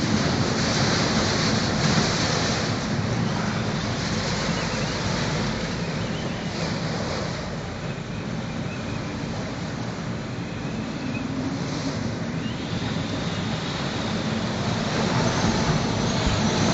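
Severe squall-line wind of around 100 km/h blowing hard, with gusts buffeting the phone's microphone. It eases a little midway and picks up again near the end.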